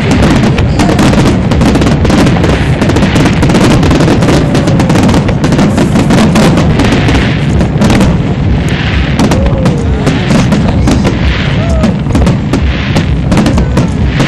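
Aerial fireworks shells bursting in a rapid, overlapping barrage, loud and nearly continuous, with crackling between the bangs.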